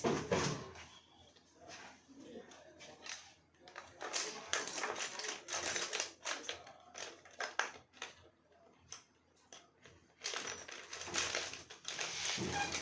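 Bursts of clicking, rattling and scraping of small hard objects being handled, in two stretches of dense clicks: one about four seconds in and one from about ten seconds in.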